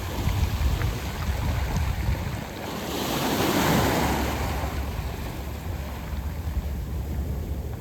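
Sea waves washing onto a beach of round pebbles: one wave surges up about three seconds in and hisses back down. Low wind rumble on the microphone runs underneath.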